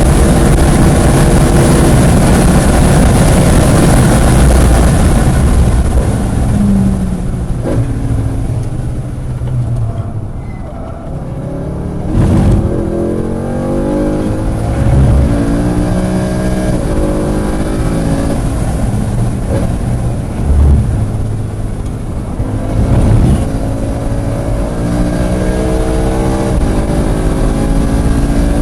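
Track car's engine heard onboard: running hard at high revs, easing off for several seconds, then accelerating again with revs climbing and dropping back repeatedly through gear changes.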